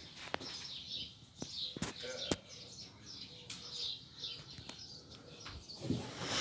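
Small songbirds chirping and singing in short repeated phrases throughout. A few sharp clicks come in the first couple of seconds, and a brief louder rustle comes near the end.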